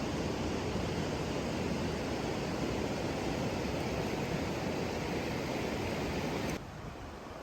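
Steady rushing water with no pauses or rhythm. About six and a half seconds in it drops suddenly to a quieter rush.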